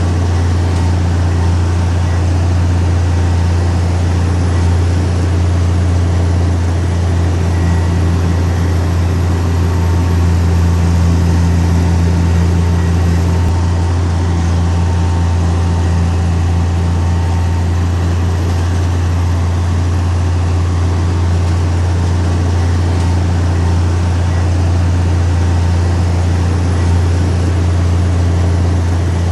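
Heavy diesel engine of earthmoving machinery running steadily at a constant speed, with a deep, unbroken low hum.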